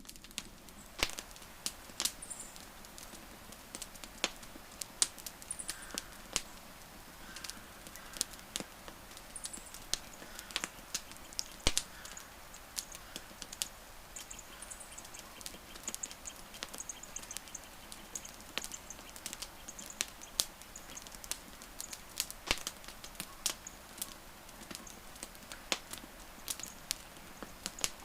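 Wood fire crackling: irregular sharp pops and snaps of burning wood over a soft hiss, with faint high chirps in the background.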